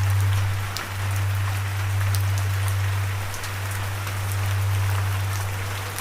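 Steady rain with single drops ticking through the hiss, over a loud steady low hum that dips briefly twice.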